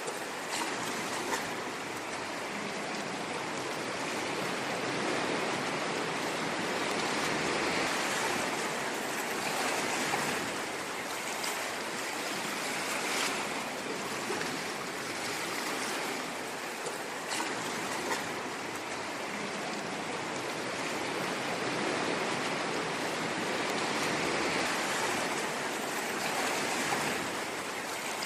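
Ocean waves washing onto a shore: a continuous surf wash that swells and eases slowly over several seconds.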